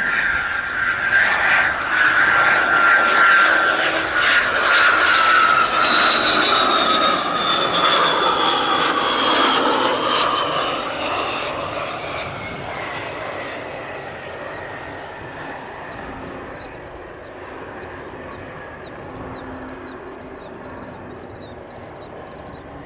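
Cessna Citation CJ2+ business jet with its twin turbofans passing close by and then fading away. Its turbine whine drops steadily in pitch as it goes past.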